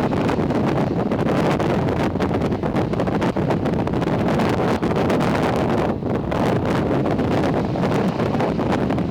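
Steady wind buffeting the microphone: a continuous rushing rumble with no let-up.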